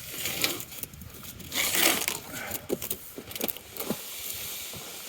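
A heavy cardboard-boxed game hoist being handled and lifted: irregular knocks and clicks with bursts of scraping and rustling, the loudest a little under two seconds in.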